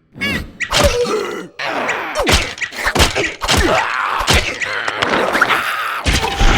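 Animated cartoon characters groaning and grunting amid a rapid run of slapstick sound effects: whacks and thuds, about a dozen hits.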